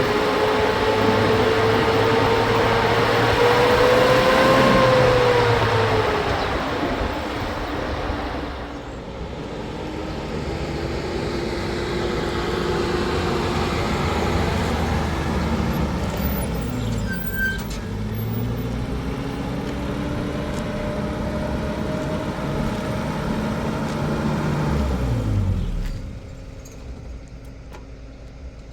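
Motor vehicle engine running under road noise, its pitch climbing and then falling as it speeds up and eases off, then a second slower rise and fall; the engine sound drops away sharply near the end.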